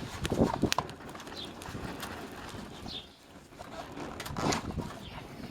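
Wood fire in a twig stove crackling, with irregular sharp pops over a steady gusty rush, and a bird calling a few times in the background.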